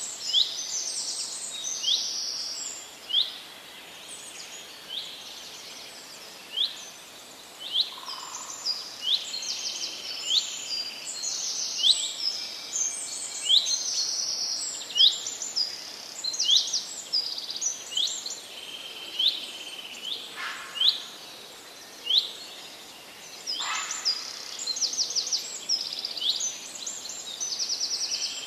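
Forest birds singing: repeated short, sharp chirps and quick trilling phrases, one after another, over a steady background hiss.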